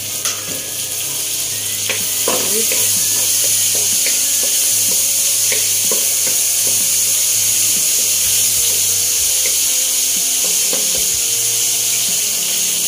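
Oil sizzling steadily in a nonstick wok as chopped onion, garlic and tomato fry, growing louder about two seconds in, with occasional scrapes and knocks of a wooden spatula stirring the pan.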